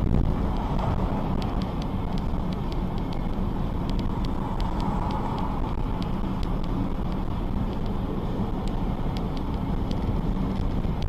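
Steady vehicle noise: a low rumble of engine and road with scattered light clicks.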